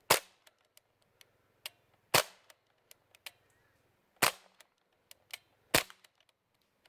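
Four single shots from a CO2-powered UZI-style BB airgun fitted with a silencer, sharp cracks about one and a half to two seconds apart, with fainter clicks in between.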